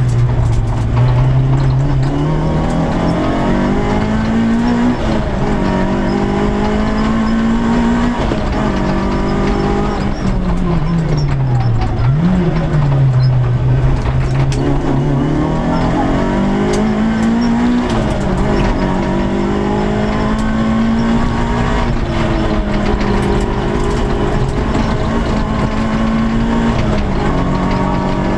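A Peugeot 106 S16 rally car's 1.6-litre 16-valve four-cylinder engine running hard, heard from inside the cabin. The revs climb and step down again and again with the gear changes, falling to a low point about twelve seconds in before climbing once more.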